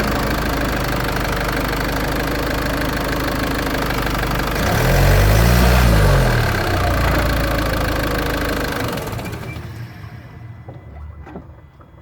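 Land Rover Freelander 2 drivetrain recorded from right beside the front differential while driving: a loud steady mechanical din of grinding and road noise. Around the middle a set of low tones rises and falls. From about nine seconds in the noise dies away as the car slows, leaving faint clicks.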